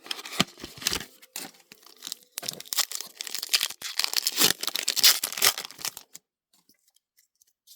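Foil booster pack of trading cards being torn open and crinkled, a quick run of crackling tears and rustles that stops about six seconds in.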